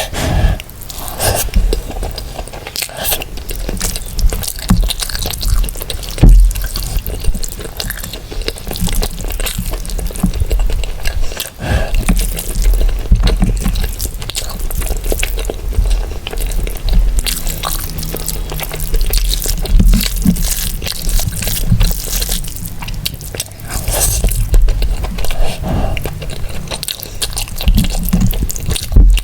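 Close-miked eating of mutton biryani and mutton curry: steady chewing, wet squishing and smacking of rice and curry, with small crunches and many quick clicks. Music plays underneath.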